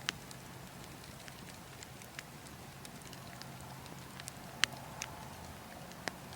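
Burning wood logs crackling, with scattered sharp pops, the loudest a little past halfway, over a steady low rush of wind.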